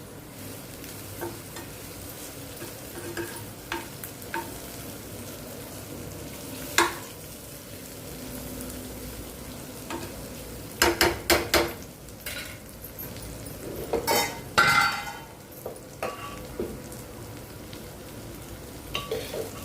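Food sizzling and frying in a pan while a spatula stirs it, with sharp clicks and knocks of the utensil against the pan, a quick run of several strikes about halfway through and another cluster a few seconds later.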